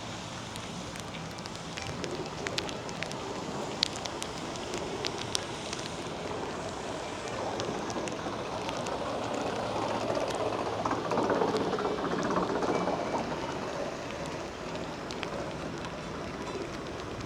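Rain falling steadily, with sharp drop ticks close by; a louder rushing swell builds around the middle and fades a few seconds later.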